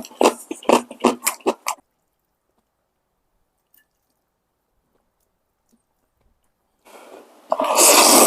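Wet mouth clicks and chewing while eating ramen, then a pause, then a loud slurp of about a second and a half near the end.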